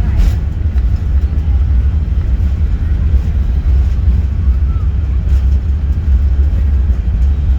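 Steady, loud low rumble of an Airbus A380's cabin noise, from its engines and airflow, with faint voices in the background.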